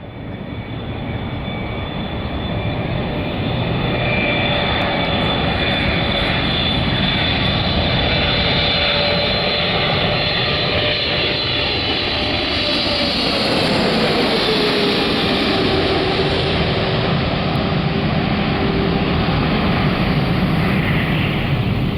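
Boeing 777-200LR's twin GE90 turbofans on landing approach: loud, steady jet noise with a high fan whine. A steady tone drops in pitch about 13 seconds in as the airliner passes by.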